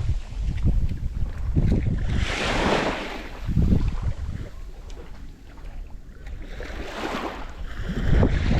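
Wind buffeting the microphone with a rumbling low noise, over water washing at the shore, which swells twice, about two and a half and seven seconds in.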